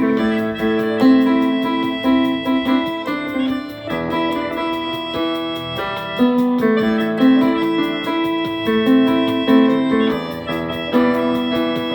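Instrumental break in a song: piano-like keyboard playing chords and a melody at a steady, even pace, with no singing.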